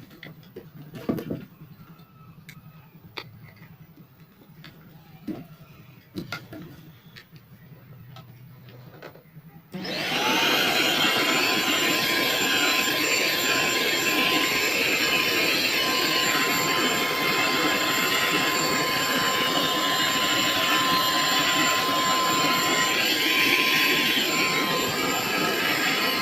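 A few scattered clicks and knocks of handling, then about ten seconds in a vacuum cleaner switches on and runs steadily: a loud rush of suction with a steady high whine from its motor.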